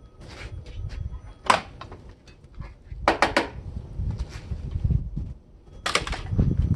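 Clicks, knocks and a quick three-stroke rattle of hard appliance parts being handled and pulled apart, over low rumbling handling noise.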